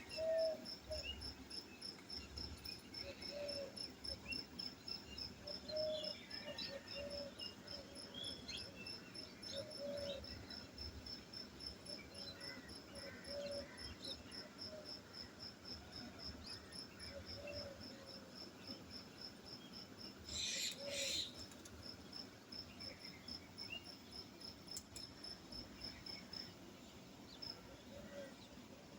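A cricket chirping steadily in a fast, even pulse, with short soft calls from another animal every second or two and a brief rustling burst about two-thirds of the way through.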